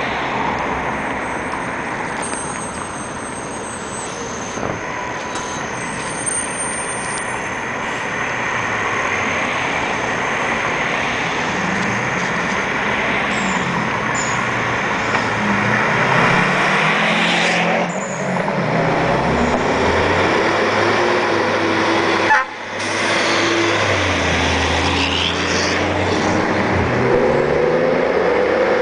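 Fire trucks' diesel engines running as they drive off through street traffic, the engine pitch rising and falling with revs and gear changes from about halfway. Near the end a pitched tone starts to rise.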